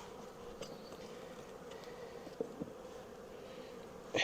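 Honeybees buzzing around an open hive, a faint steady hum, with a couple of small clicks a little past halfway.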